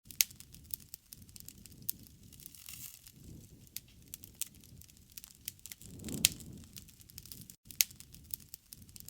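Wood campfire crackling, with sharp pops scattered irregularly and the low rush of the flames swelling up briefly about three and six seconds in.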